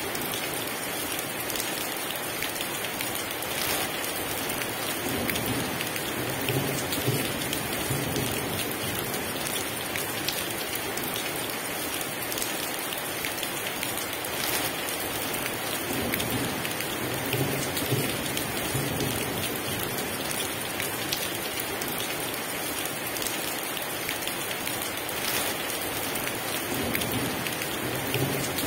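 Heavy rain pouring steadily, with low thunder rumbling up and fading about three times.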